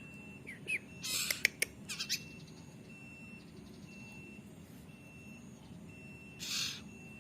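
Common iora (sirtu/cipo) chick giving harsh, raspy begging squawks while being hand-fed: two short chirps, then a burst of squawks mixed with a few sharp clicks about a second in, and a single squawk near the end.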